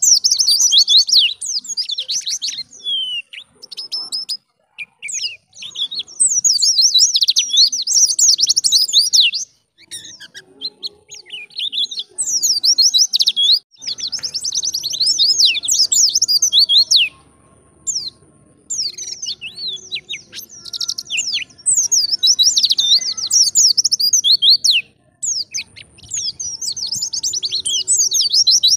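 White-eye (pleci) singing: fast, rambling, high-pitched twittering phrases in bouts of a few seconds separated by short pauses.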